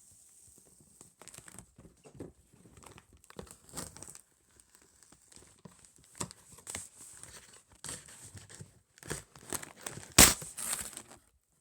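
Parcel packaging being handled: scattered crinkling and rustling, with one sharp, loud snap about ten seconds in.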